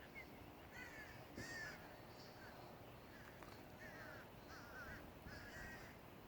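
Faint crows cawing, a string of about eight short calls repeated at irregular intervals.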